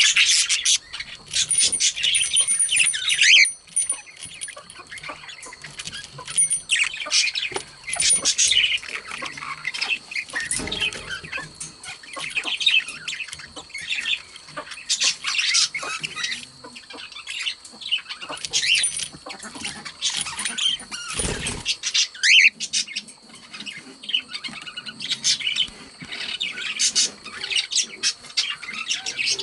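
Pet budgerigars chattering and warbling: a steady stream of rapid high chirps and squawks.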